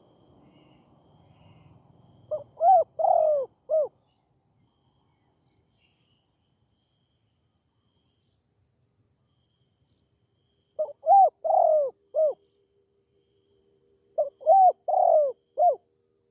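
Spotted dove cooing: three phrases, each of four or five quick arching notes, with pauses of several seconds between them.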